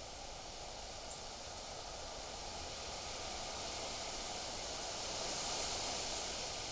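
Wind blowing through trees and leaves: a steady rustling hiss that swells to its strongest about five seconds in and eases slightly near the end.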